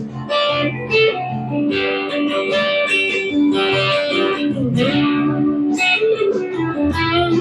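Harley Benton SC-550 electric guitar played through an amp: a run of single-note lead lines, with a string bend that dips and rises near the middle.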